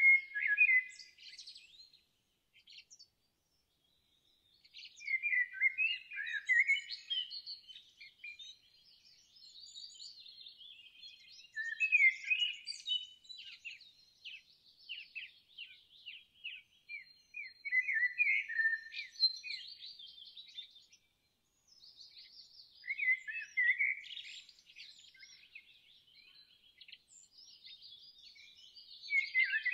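Songbirds singing: bouts of quick chirps and trills every few seconds, separated by short pauses.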